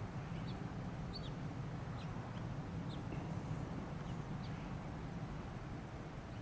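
Small birds chirping now and then, short high chirps several times across a few seconds, over a steady low outdoor rumble.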